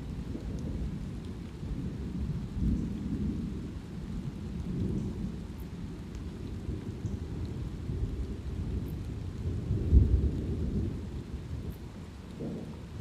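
Thunder rumbling low and rolling continuously over light rain, with a louder, sharper boom about ten seconds in.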